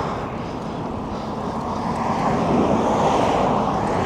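Steady rushing noise of wind on the microphone mixed with road traffic, heard from a moving bicycle.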